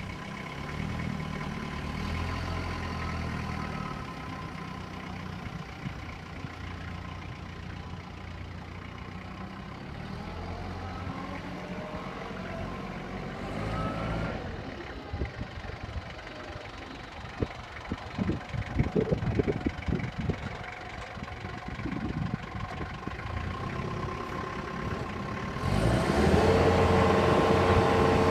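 Forklift's Isuzu engine running steadily. A burst of clanks comes about two-thirds of the way in, and near the end the sound grows louder with a steady higher-pitched whine.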